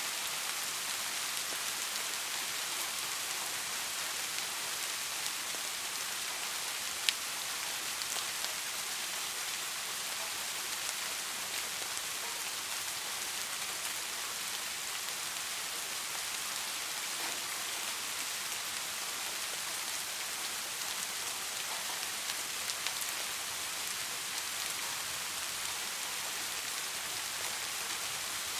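Steady rain falling and pattering on a surface, an even hiss with scattered individual drop ticks, one sharper tick about seven seconds in.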